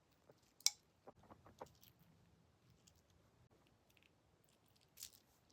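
Faint scattered clicks and light knocks of 3D-printed plastic dragon figures being handled, a sharp click about a second in followed by a few quicker ones, and a short soft rustle near the end.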